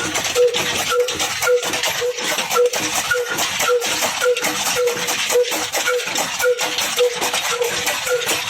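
Chaff cutter driven by an old single-cylinder Ruston Hornsby diesel engine, running with a steady metallic clatter and a short squeak repeating about twice a second.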